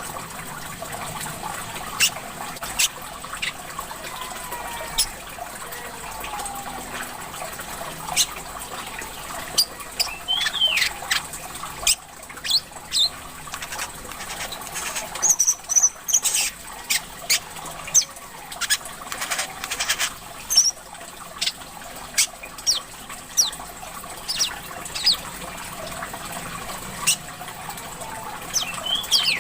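A songbird calling in short, sharp chirps and quick whistled notes over a steady trickle of running water. The chirps come more often in the second half.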